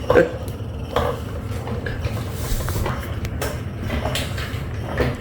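Battery-powered cat toy running with a steady low hum, broken by several sharp plastic knocks and rattles as kittens paw at it.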